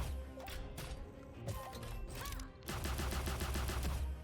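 Money Train 4 slot game sound effects during a bonus round: a fast, even rattle of clicks over a low hum, breaking off about a second in and starting again after two and a half seconds, with game music and chimes between.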